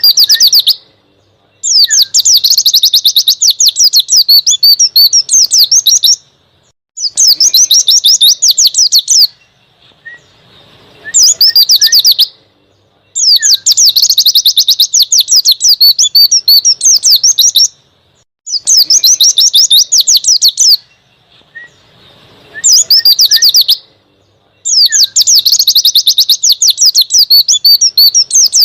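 White-eye (pleci) singing rapid, high-pitched song phrases in loud bursts of one to five seconds, about seven in all, separated by short pauses.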